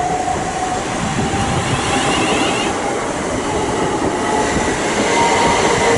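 Electric multiple-unit passenger train running along the platform: a steady rush of wheels on rail with faint squealing tones coming and going.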